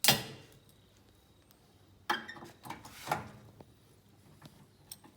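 Sharp metallic snap of a pop rivet being set into sheet steel, then a couple of clinks and knocks of metal parts being handled.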